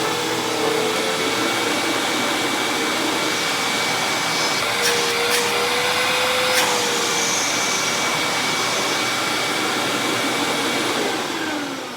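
Hoover WindTunnel Plus upright vacuum cleaner running very loud, a steady motor whine over a rushing air hiss, with a few sharp ticks near the middle. Near the end the motor is switched off and its whine falls as it spins down.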